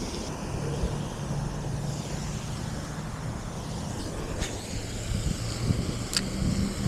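Steady low engine drone, a motor running at an even pitch, over outdoor background noise. Two brief sharp high clicks or chirps come about four and a half and six seconds in.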